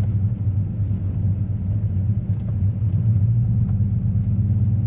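Chevrolet Silverado pickup driving on a snowy, icy road: a steady low engine and road rumble.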